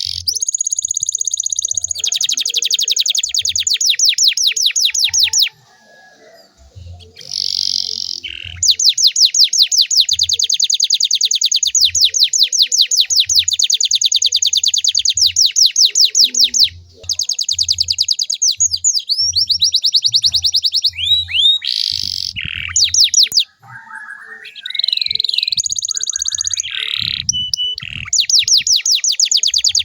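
Domestic canary singing long, rapid trills of high repeated notes, with a few short pauses and some swooping whistled phrases about two-thirds of the way in. It is a loud lure song for prompting other canaries to sing.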